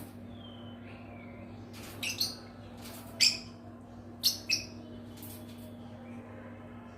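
Pet lovebirds giving a scattered handful of short, sharp chirps, the loudest about three seconds in, with a couple of faint whistled notes near the start, over a steady low hum.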